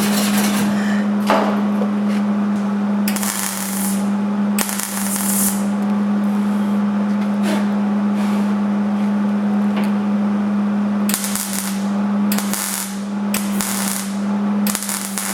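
MIG welder laying a series of short tack welds on the door's steel panel, each a burst of arc crackle lasting about a second, over a steady low hum.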